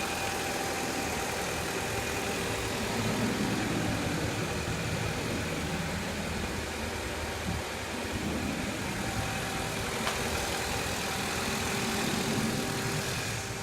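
Lada Largus engine idling steadily on its first run after seven months standing, running smoothly, "like clockwork".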